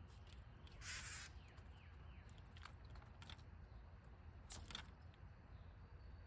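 A bird at a backyard feeder gives one short, harsh call about a second in, followed by a few faint chirps. Scattered sharp clicks and taps follow, the loudest about four and a half seconds in.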